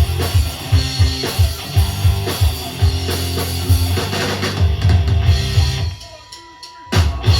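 Rock band playing an instrumental passage with drum kit, bass and electric guitar, the drums keeping a steady driving beat. About six seconds in the band drops out for roughly a second, leaving a faint steady tone, then all come back in together.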